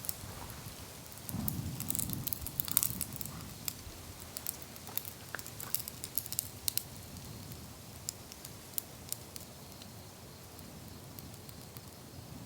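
Wood fire crackling with irregular sharp snaps and pops, busiest in the first few seconds and thinning out later. A low rumble sits under it between about one and two and a half seconds in.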